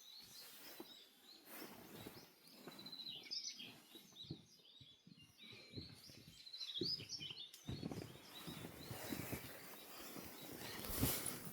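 Dawn chorus: many birds singing and chirping at once in overlapping short calls and trills. A few low thumps break in, the loudest one about eleven seconds in.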